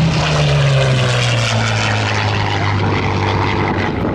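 Yak-3 piston-engined propeller fighter flying past low and loud, its engine note falling steadily in pitch as it passes and draws away.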